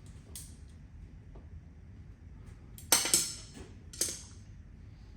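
Clatter of hand tools and small parts being handled during outlet installation: a light click, then a sharp rattling clatter about three seconds in and a single knock a second later.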